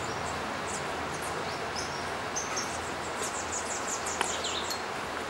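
Small birds chirping with high, thin calls, including a quick run of chirps about three seconds in, over a steady background hiss.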